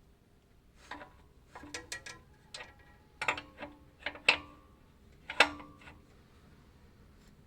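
Metal hand tools clinking and knocking on steel while the flex plate bolts are undone: about a dozen irregular sharp clinks, some ringing briefly, the loudest a little past the middle.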